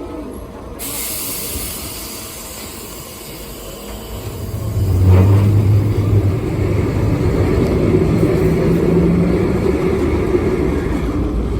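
Electric tram running along its rails, with a sudden hiss about a second in. About halfway through it gets louder as a low motor hum swells, with a single clank as it does.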